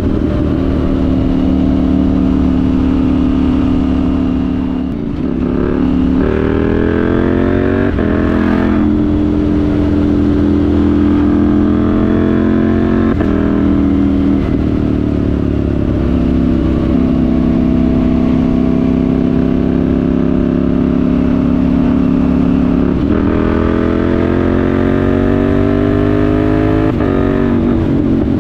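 KTM 790 Duke's parallel-twin engine heard through a Remus rear silencer with the catalytic converter removed, while riding. Mostly steady cruising, with the engine note rising under acceleration about six seconds in and again near the end, and the pitch dropping sharply at each gear change.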